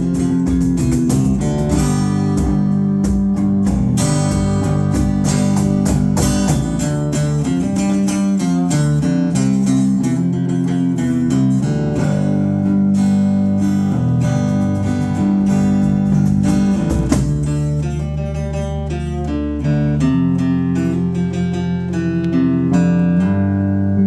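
Live guitar music with no singing: strummed chords over held low notes. The playing thins out over the last few seconds into a sustained ringing chord.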